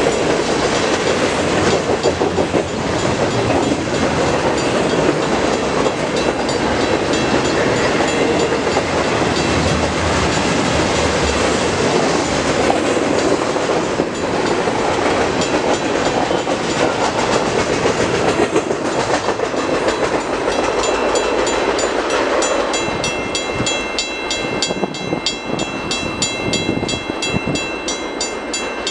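CN intermodal freight train rolling past, its railcars' wheels clicking over the rail joints in a steady loud rush of noise that eases a little near the end.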